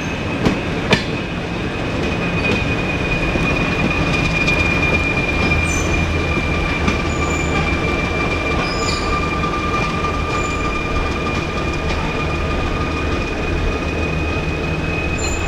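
Freight train rolling with a steady, high-pitched wheel squeal over a low diesel rumble from the Alco RS-1 locomotive. A couple of knocks in the first second.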